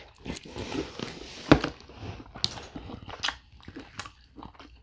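A person biting off and chewing buttery lobster meat, with wet mouth sounds and many small irregular clicks. One louder click comes about a second and a half in.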